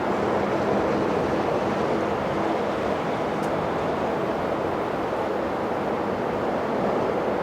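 Steady jet airliner engine noise, a broad even rush with faint low hum tones, holding level throughout.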